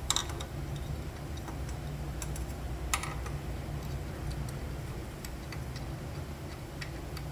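Scattered light clicks and taps of tools and small hardware being handled, with a sharper click just after the start and another about three seconds in, over a steady low hum.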